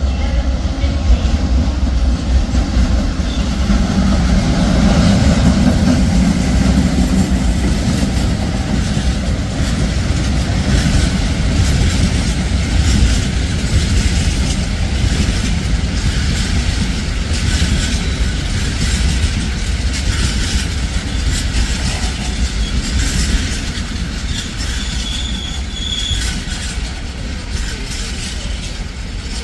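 A train passing along the platform road, its wheels clattering over rail joints and pointwork amid a steady rumble, with a brief high wheel squeal a few seconds before the end.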